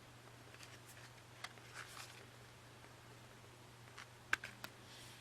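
Faint handling sounds of album CD sleeves being picked up and shuffled: light rustles and taps over a steady low hum, with a few sharper clicks about four seconds in.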